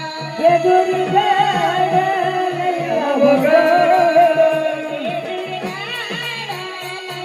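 A woman singing a Marathi song, holding long wavering, ornamented notes over a steady, evenly repeating low drum beat.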